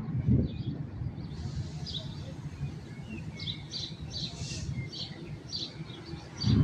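Small birds chirping repeatedly over a steady low rumble, with a louder low swell of the rumble just after the start.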